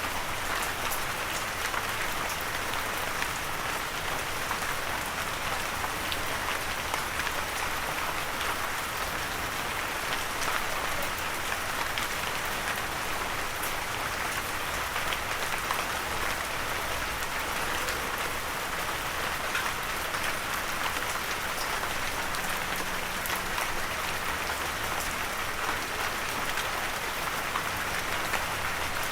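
Steady light rain falling, an even hiss with scattered individual drop ticks and no thunder.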